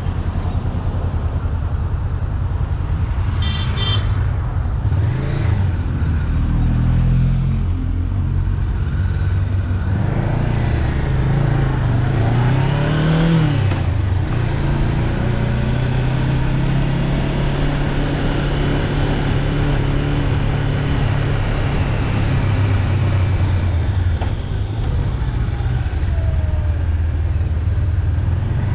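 Honda CB500X's parallel-twin engine running under way, its pitch rising and falling with the throttle, climbing about ten seconds in and dropping sharply near the middle, over a steady rushing noise.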